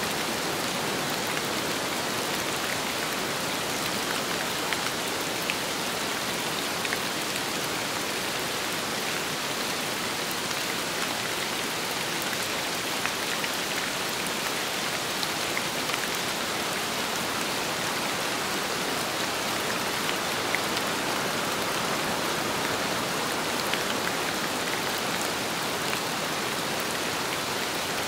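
Steady rain falling on a surface, with a few louder single drop hits scattered through it.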